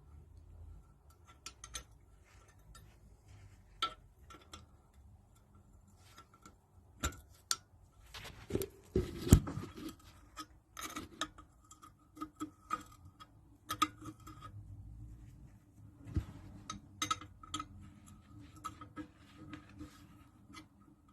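Scattered light metallic clicks and taps of hand tools on the Lister D engine's parts as the float assembly is worked loose, with a louder clatter about nine seconds in.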